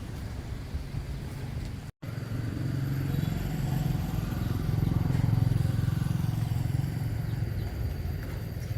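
An engine running with a steady low hum; the sound drops out for an instant about two seconds in, then the engine comes back louder, swelling toward the middle and easing off near the end.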